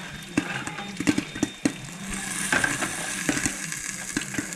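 Popcorn popping in hot oil: irregular sharp pops over a sizzle, with a steady low hum underneath.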